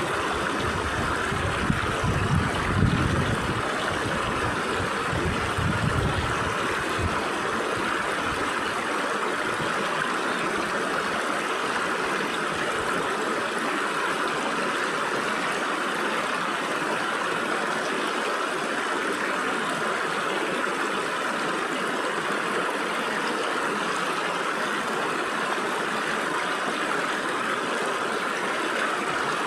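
Stream water flowing steadily through gaps between rocks, a constant rushing babble. There is some uneven low rumbling in the first several seconds.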